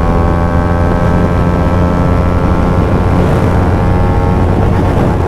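KTM motorcycle's engine running at a steady cruising speed, its pitch holding constant under even throttle.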